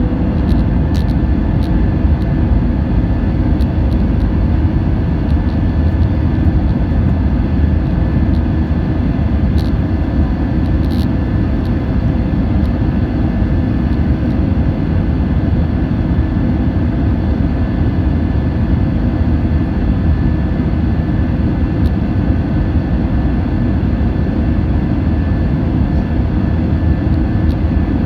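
The two IAE V2500 turbofan engines of an Airbus A320-232 running at takeoff power. It is a steady, loud rumble with a thin, even whine above it, holding at the same level throughout.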